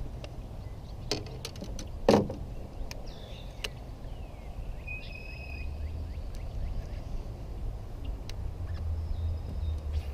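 Outdoor ambience: a steady low rumble like wind on the microphone, scattered light clicks with one sharper knock about two seconds in, and birds calling with short whistled and chirping notes.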